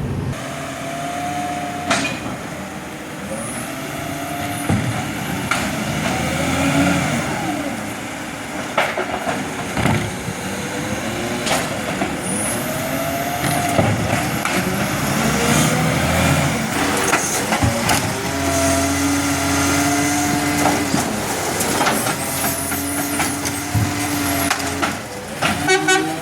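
Garbage truck running, its engine and whining tones rising and falling over and over, with scattered knocks and clanks.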